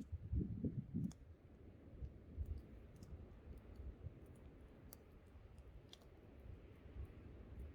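Wood campfire crackling, with scattered sharp pops and snaps. Under it runs a low wind rumble, heaviest in the first second or so.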